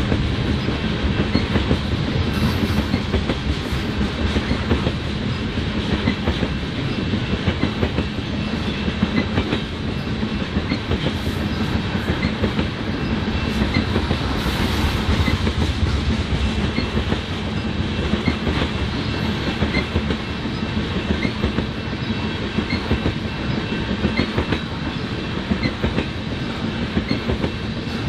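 BNSF freight train cars rolling past, wheels clattering in a steady clickety-clack over the rail.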